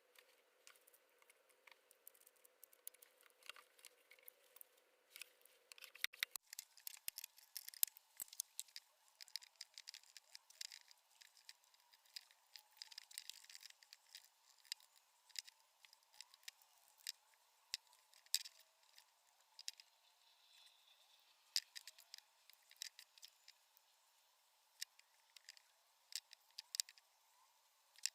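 Faint, irregular sharp clicks and light taps from hand crafting work on small objects, with a faint steady hum underneath.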